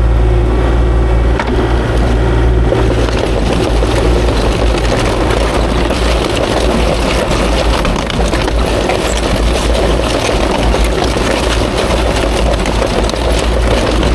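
Kubota KX040-4 excavator's diesel engine running steadily, with faint scattered clicks and knocks.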